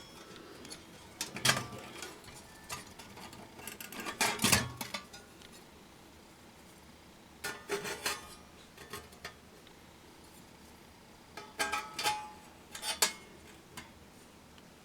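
Scattered metallic clinks and clanks with short ringing, in a few separate groups: metal camp gear being handled.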